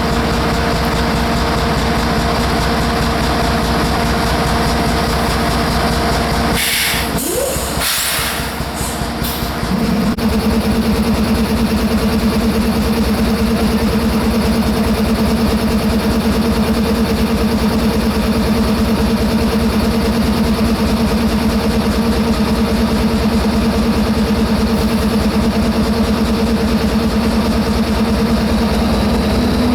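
A heavy engine running steadily, with a few brief hissing bursts about seven to nine seconds in. After that a stronger steady hum settles in and rises slightly at the very end.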